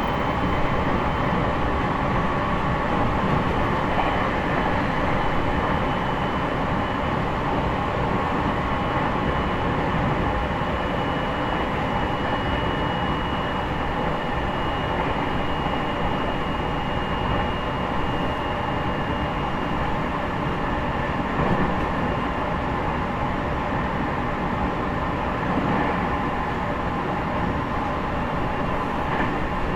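Onboard running noise of an E501 series electric train's motor car (MoHa E501-8) at speed: a steady rumble of wheels on rail. A faint steady high tone sits above it.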